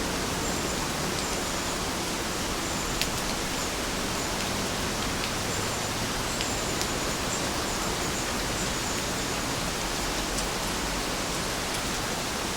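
Steady rainfall, an even hiss with occasional single drips ticking out of it, one more distinct about 3 seconds in.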